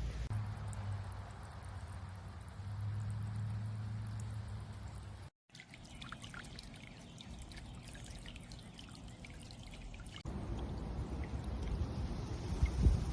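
Water splashing and trickling from a small solar-powered bird bath fountain spraying into its basin. The sound breaks off for a moment about five seconds in and changes character about ten seconds in.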